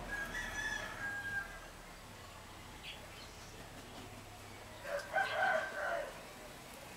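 Bird calls: a pitched call in the first second and a half and a louder, fuller call about five seconds in, with faint short chirps between them.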